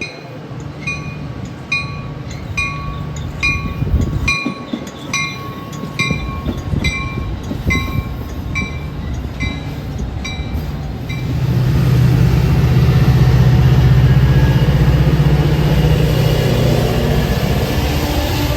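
A railroad bell rings steadily, about once a second, for the first eleven seconds and then stops. A diesel train's rumble then rises sharply and the train runs past.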